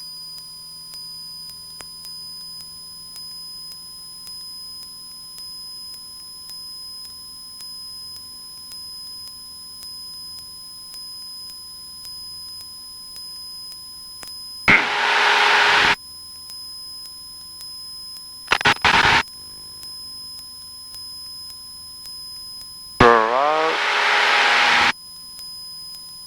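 Cockpit headset-intercom feed of a Cessna 172 in a steep turn: a steady hiss with thin electronic whining tones. Two loud bursts of garbled radio voice come in, about 15 seconds and 23 seconds in, with a couple of sharp clicks near 19 seconds.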